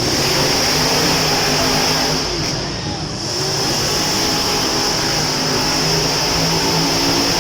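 Monster truck engines revving loudly, their pitch rising and falling over a dense roar of noise.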